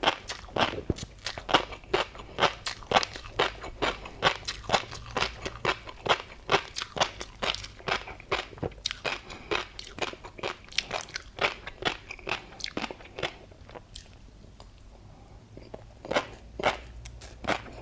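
Close-miked chewing of a mouthful of tobiko and crunchy seafood topping: a quick run of crisp crunches and pops, several a second. It eases off briefly about three-quarters of the way through, then the crunching resumes.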